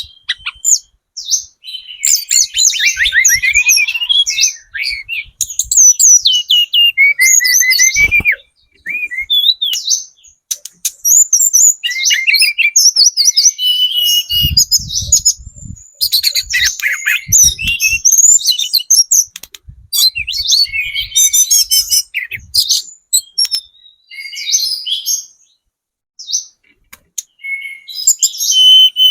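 Tledekan gunung trotol, a small flowerpecker, singing fast high chirps and rapid twittering trills in bursts of a few seconds with short pauses. A few faint low thumps sound under the song.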